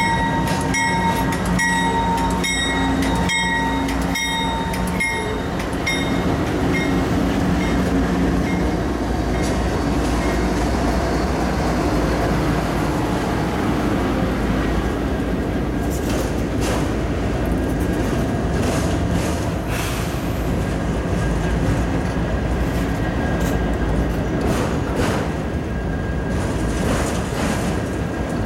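Diesel freight train passing slowly. For the first few seconds the locomotive's engine drones and a bell rings about every two-thirds of a second. After that a long string of autorack cars rolls by with a steady rumble and scattered wheel clanks and squeaks.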